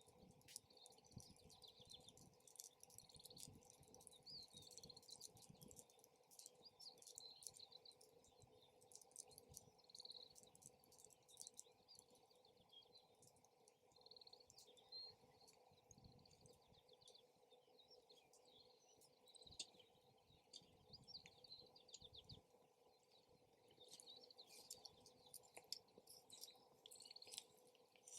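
Wood campfire crackling quietly with irregular small pops and ticks, while small birds chirp off and on in the background.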